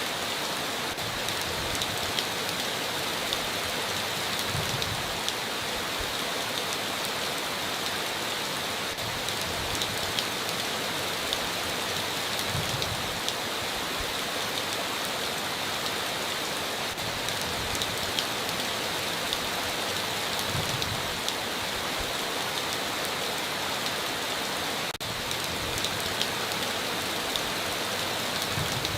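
Steady heavy rain falling, with many sharp individual drop ticks scattered through it.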